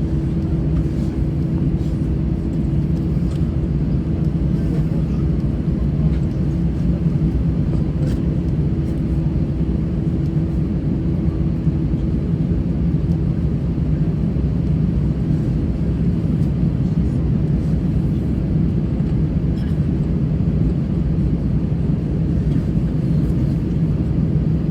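Steady cabin rumble of an Airbus A320-214, its CFM56 engines and airflow heard from inside the passenger cabin, with a low hum that weakens about ten seconds in.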